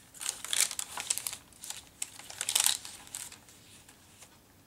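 Paper pages of a handmade junk journal rustling and crinkling as they are handled and turned, a run of quick crackles that stops about three seconds in.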